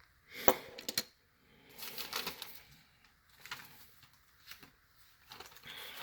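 Handling noise from a 1:64 scale Hot Wheels diecast car being picked up and turned over in the hand: two sharp clicks in the first second, then scattered light rustles and taps.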